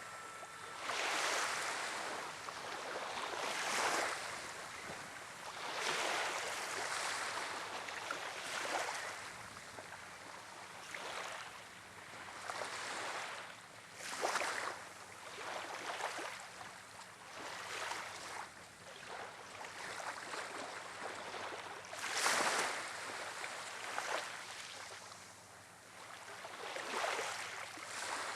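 Wind-driven waves washing and breaking on the shore, in irregular surges every second or two.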